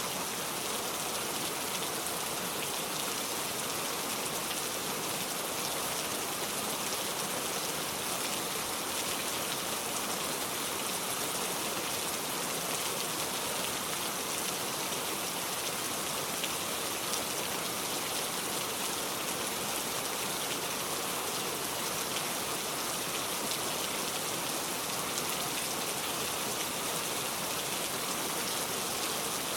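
Heavy rain falling steadily on a metal roof: a dense, even hiss with scattered single drop ticks.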